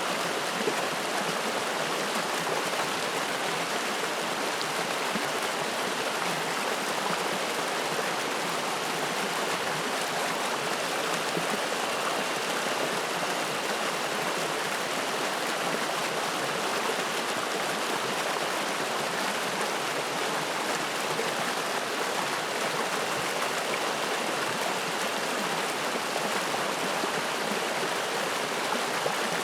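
Spring-fed mountain stream flowing and splashing over rocks, a steady, even rush of water.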